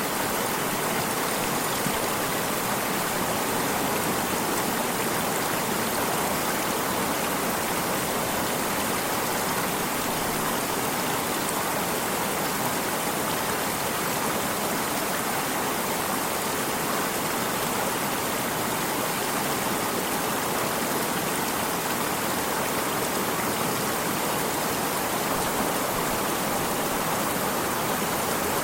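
Water of a stream running, a steady rushing hiss with no breaks or changes.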